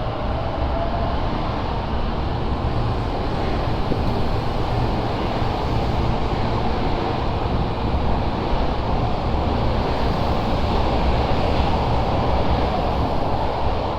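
Osaka Metro 10 series subway train running: a steady rumble with wheel and running noise that swells slightly toward the end.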